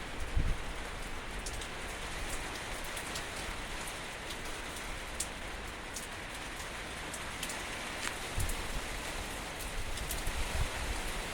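Steady rain falling, with scattered sharper drip sounds and a few brief low thumps.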